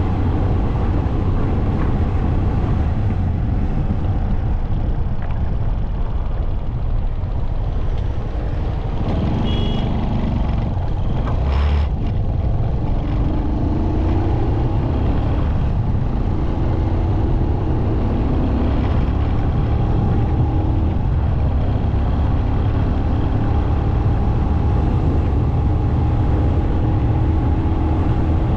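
Motorcycle riding on the road: steady wind rush over the microphone with the engine's note wavering as the speed changes, and a single sharp click about twelve seconds in.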